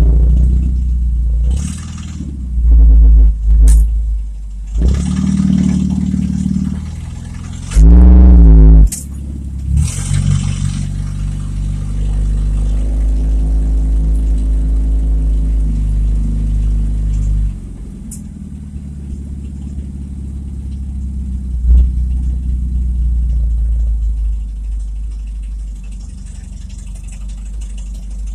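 A cheap old car's engine with a loud exhaust that needs fixing, revving hard in several short bursts during the first ten seconds, then running more steadily under way.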